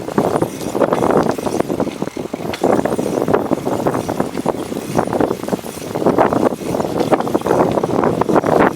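Strong wind buffeting the microphone of a cyclist riding into it, a loud rough noise that surges and dips in gusts.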